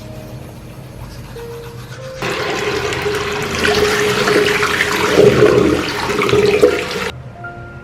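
Water rushing, starting suddenly about two seconds in and cut off abruptly near the end, over soft background music.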